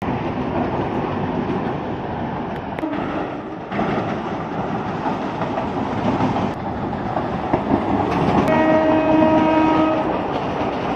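Electric suburban (EMU) trains passing, a dense rumble with wheel-on-rail clatter that shifts abruptly twice. About eight and a half seconds in, a train horn sounds one steady note for about a second and a half.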